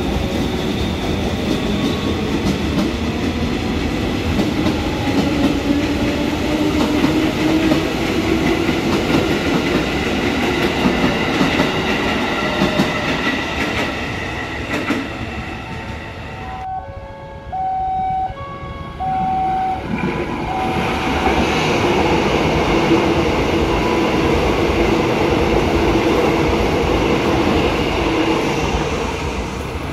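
KRL Commuterline electric train (ex-JR East 205 series) pulling out along the platform, with wheel clatter and a motor whine that climbs in pitch as it gathers speed, then fading away. A little past halfway the noise drops abruptly to a few short tones on two alternating pitches. From about two-thirds of the way, an airport train runs close past the platform.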